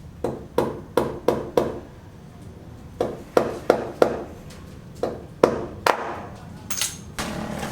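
Repeated sharp knocks, each a short hard blow, in quick runs of about three a second with a pause of about a second between runs.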